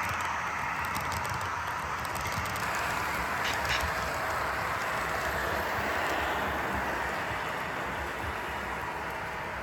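HO scale model train running along the track, a steady rolling and motor noise that gradually gets quieter, with a couple of faint clicks about three and a half seconds in.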